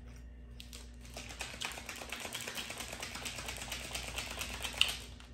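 Small plastic seasoning packet crinkling in the hands as it is opened: a rapid, dense crackle, with one sharper snap near the end.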